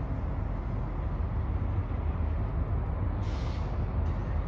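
Distant train with its diesel locomotive approaching slowly, a steady low rumble, with a short hiss about three seconds in.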